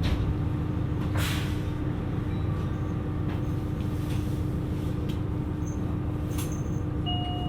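KiHa 127 series diesel railcar idling at a standstill: a steady low engine rumble with a constant hum, broken by a few short hisses of air from the brakes.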